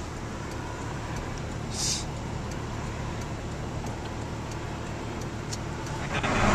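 Steady traffic and road noise from cars, with a brief hiss about two seconds in; the sound grows louder just before the end.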